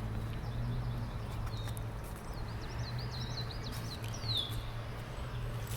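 Songbirds singing: a few short high chirps, then a quick run of high down-slurred notes about two seconds in, ending in a longer falling note, over a steady low background hum.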